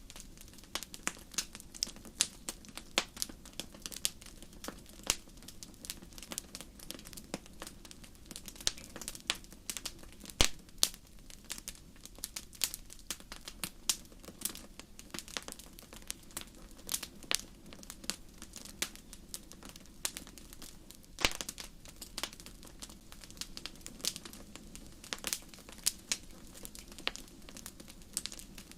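Wood campfire crackling: irregular sharp pops, several a second, over a faint low rumble, with a few louder pops about a third and two thirds of the way through.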